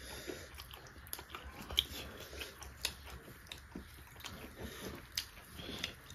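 Close-up eating sounds: chewing and wet mouth smacks, with irregular soft clicks as food is mixed and eaten by hand.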